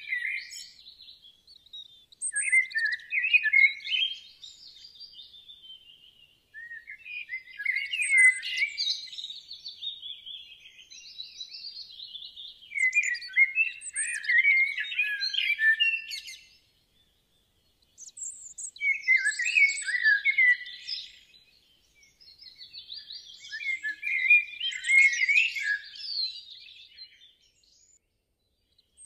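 A songbird singing in repeated phrases of rapid chirps and twitters, about six phrases of a few seconds each with short pauses between them.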